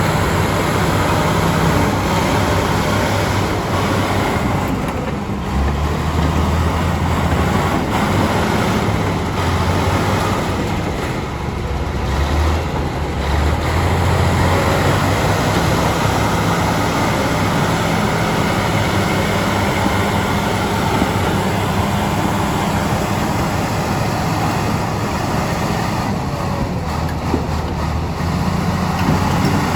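Bulldozer's diesel engine running under load, working louder and softer in the middle of the stretch.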